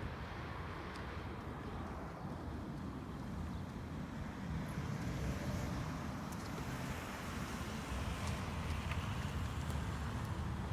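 Wind buffeting the microphone: a steady low rumble with a hiss over it, growing a little stronger about four seconds in.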